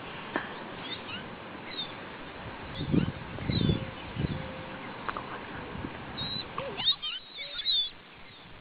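Small birds chirping in short, high calls, with a quick run of chirps near the end. A few low thumps come about three to four seconds in.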